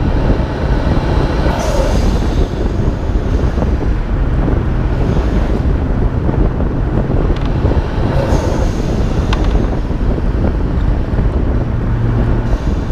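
Nissan Skyline R32 GT-R's twin-turbo RB26DETT inline-six running on a drive, heard through heavy wind buffeting on a hood-mounted microphone. Two short bursts of hiss stand out, one about two seconds in and another about eight seconds in.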